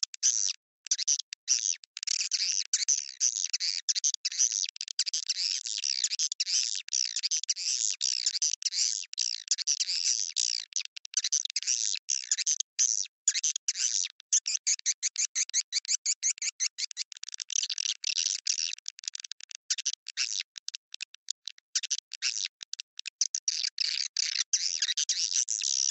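Swiftlet call recording (suara panggil): dense, high-pitched chirping and twittering of swiftlets in rapid pulses with short breaks. It is a lure sound that swiftlet farmers play to draw swiftlets into a nesting house.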